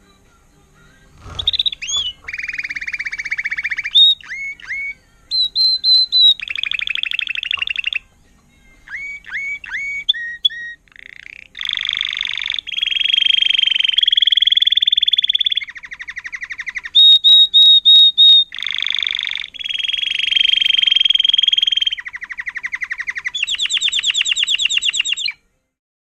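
Spanish Timbrado canary singing a long song made of separate tours: fast, even trills and rolls alternating with short runs of clipped, sharp notes. It breaks off abruptly near the end.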